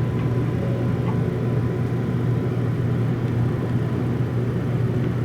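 Steady low rumble and hum of the Relay Kamome limited express train, even throughout with no changes.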